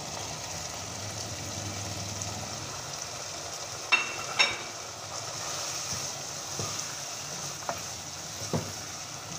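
Minced meat and chopped green bell peppers sizzling steadily in hot oil in a non-stick wok, the mince fried until the oil has separated, while a spatula stirs them. Two sharp clicks about four seconds in and a few fainter knocks later are the spatula striking the pan.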